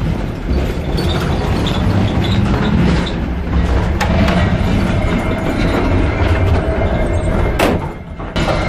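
Running noise of a moving passenger train heard inside the carriage: a steady rumble of wheels on the rails with the carriage rattling. There are sharp clicks and knocks about four seconds in and a couple more near the end.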